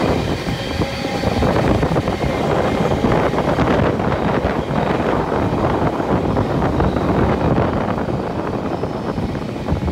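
Wind rushing and buffeting the microphone over the steady rumble of a moving passenger train.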